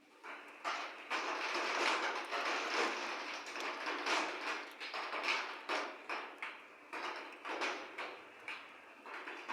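A thunder roll with many sharp crackles: it swells about half a second in, peaks near two seconds, then rumbles and crackles on as it slowly fades. Its deep low end is cut away.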